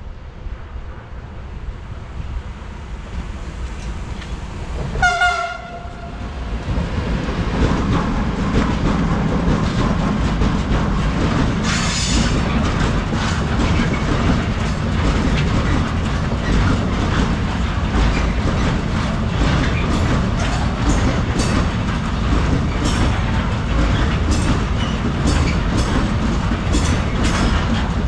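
A train horn sounds one short blast about five seconds in. Then a freight train rolls past, a steady loud rumble with wheels clacking over the rail joints, the clacks coming regularly in the second half.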